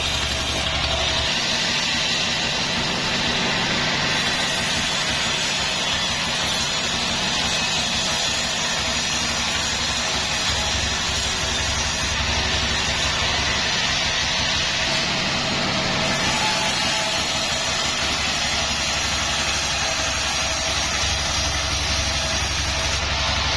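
Sawmill machinery running steadily: a continuous, even engine-like drone with a constant tone.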